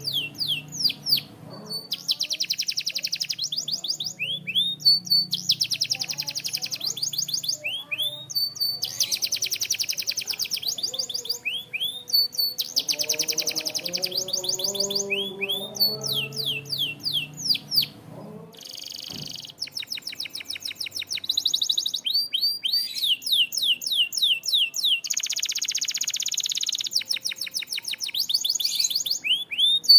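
Canary singing: long runs of fast trills of rapidly repeated notes, alternating with series of downward-sweeping whistles. Soft background music plays under the song for the first half or so.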